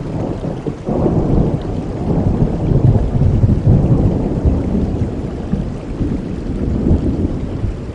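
A long rolling thunder rumble over steady heavy rain. It swells about a second in, is loudest a couple of seconds later, and slowly dies away toward the end.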